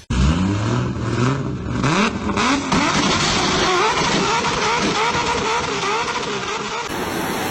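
An engine revving, its pitch rising and falling over and over, starting abruptly.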